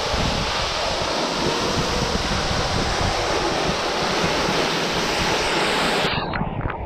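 Waterfall rushing in a steady, loud wash of falling water. About six seconds in it cuts off abruptly, leaving a quieter low rumble with scattered clicks.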